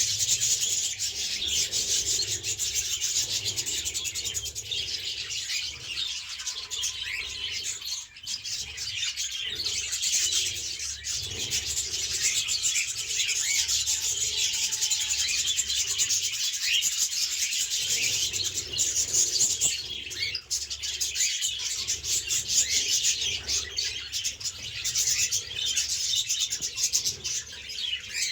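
A flock of caged budgerigars and cockatiels chattering and chirping without pause, a dense, steady twittering.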